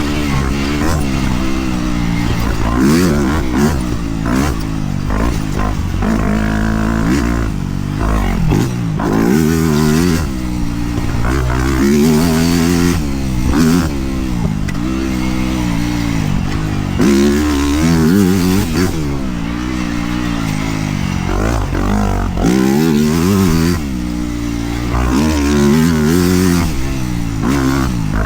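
Dirt bike engine revving up and down over and over as the rider works the throttle and gears along a trail, the pitch climbing and dropping every second or two.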